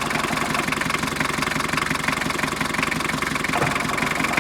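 Hindustan Ambassador's diesel engine, a conversion from petrol, idling steadily with an even rhythm, a few seconds after a glow-plug start.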